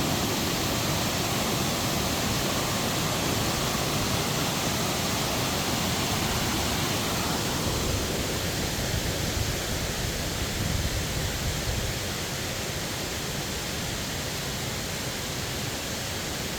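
Steady rushing noise of a tall waterfall's falling water, slightly lower about twelve seconds in.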